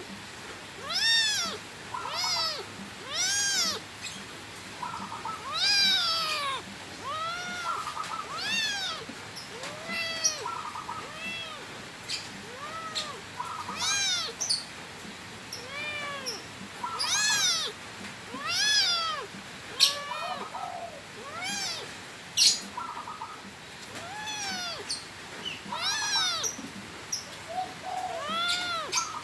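Cat meowing over and over: short meows that rise then fall in pitch, roughly one a second, some overlapping, with a couple of sharp clicks about two-thirds of the way through.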